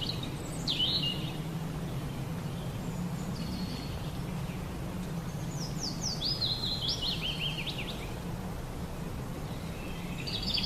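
Outdoor field recording with a low steady hum. Over it come bird calls: a few short falling chirps at first, then a quick run of descending chirps a little past the middle.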